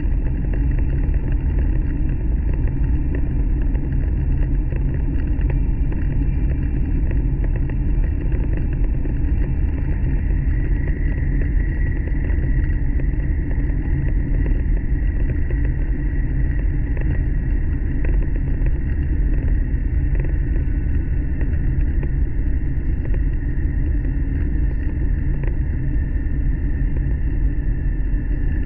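800 Series Shinkansen running at speed, heard inside the passenger cabin as a steady low rumble. A faint high whine comes in about ten seconds in.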